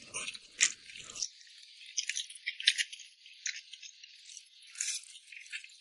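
Handling noise: irregular sharp clicks and short rattles, light and high-pitched.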